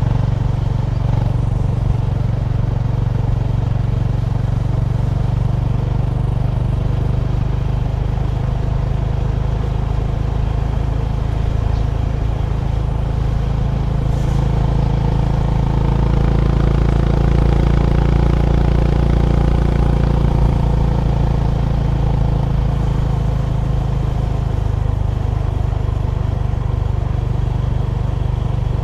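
Honda GB350's single-cylinder engine running steadily under way with riding noise. The engine note gets a little louder and higher around the middle of the stretch, then settles back lower near the end.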